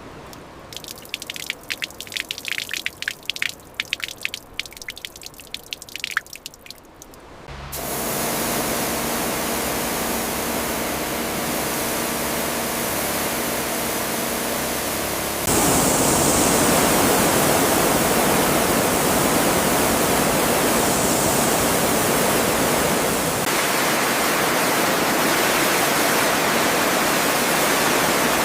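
Water dripping and trickling in scattered drops, then a steady rushing of water with a faint low hum starting about 8 seconds in, which gets louder about halfway through.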